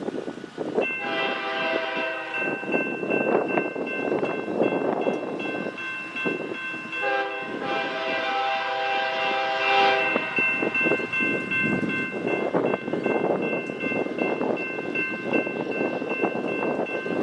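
Freight locomotive air horn sounding a chord held for most of the time, with its lower notes coming in strongly twice, over the steady rumble of the train on the rails.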